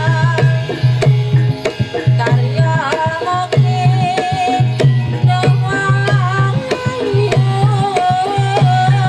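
Javanese jaranan gamelan music played live: kendang drums beat a quick, even pattern over a low tone that comes and goes, with a wavering melody line above.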